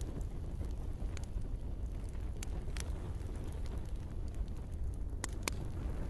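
Campfire burning with a steady low rumble and sharp wood crackles and pops, about five of them, two close together near the end.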